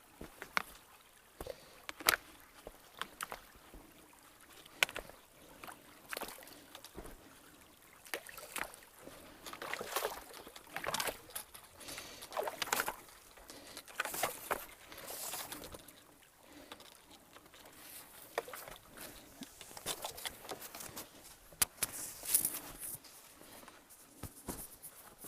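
Stream water trickling and splashing in uneven spurts, with scattered sharp clicks.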